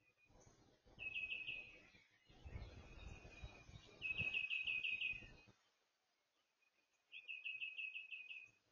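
A songbird sings three short phrases, each a quick run of about six to eight repeated high notes, a few seconds apart. Under the first two phrases a low rumble swells and then fades away.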